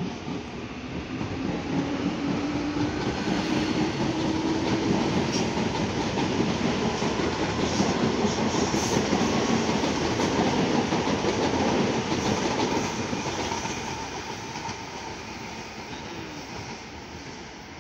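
CPTM electric commuter train passing close by, wheels running on the rails. The sound swells to a peak through the middle of the pass and fades as the train moves away, with a faint rising whine during the first few seconds.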